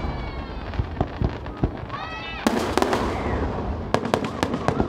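Aerial fireworks going off: a heavy burst about two and a half seconds in, then a quick run of sharp crackling pops near the end.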